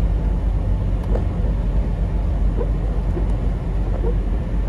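Semi-truck diesel engine and road noise heard from inside the cab while driving, a steady low rumble.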